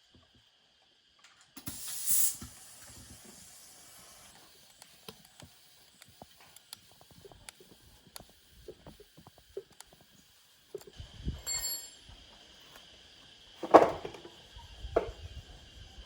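A short, loud hiss of air about two seconds in that settles into a fainter hiss, then scattered light clicks and taps of tools and parts, with a loud knock near the end.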